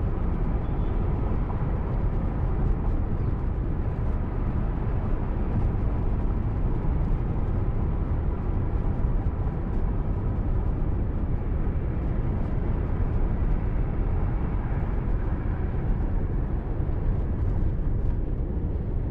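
Steady low rumble of a car driving along a highway: engine and tyre noise.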